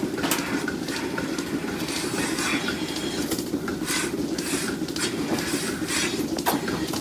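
Steady machinery rumble with irregular metallic clanks and rattles on top.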